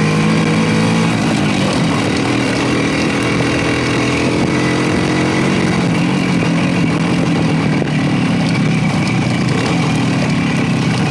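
Motorcycle engine running while riding, its note steady with small shifts in pitch about two seconds in and again around six seconds.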